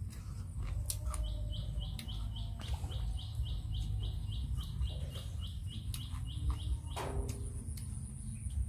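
A bird calling a quick run of short high chirps, about three a second, for several seconds, over a steady low rumble. A few clicks and a sharp crunch about seven seconds in come from a person chewing and breaking crab.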